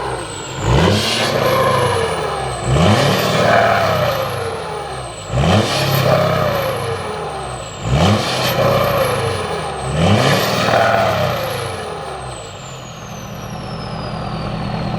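Pickup truck engine blipped five times through a loud aftermarket exhaust, each rev rising quickly and falling back, with a high whistle gliding down after each. It then settles to a steady idle near the end.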